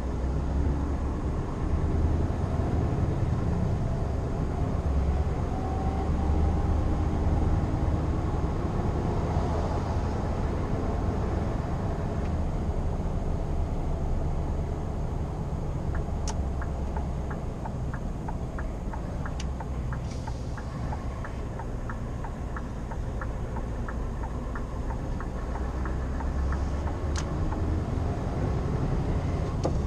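Scania R520's V8 diesel engine running as the truck drives, a deep steady rumble mixed with road noise, its pitch shifting a little early on. From about halfway in, a regular ticking at about two a second joins it.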